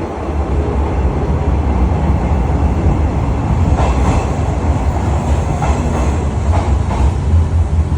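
103 series electric train running into the station: a heavy, steady rumble of wheels on rail that grows louder right at the start, with a string of short clacks as the wheels cross rail joints from about halfway through.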